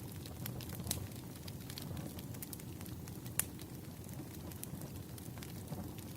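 Wood fire crackling: irregular sharp pops and snaps, a louder one about three and a half seconds in, over a steady low rumble.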